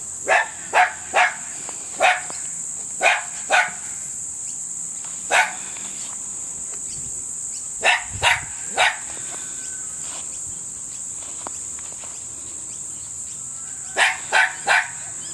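Tenterfield Terrier puppy yapping: about a dozen short, sharp barks, mostly in quick runs of two or three, with a gap of a few seconds near the middle and a last run of three near the end.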